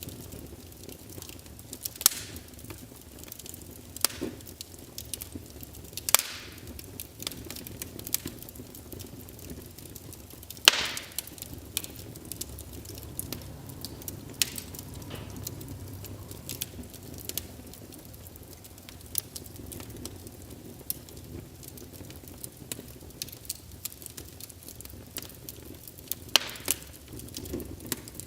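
Wood logs burning in a fireplace: a steady low rush of flame with irregular crackling and a few louder sharp pops from the burning wood.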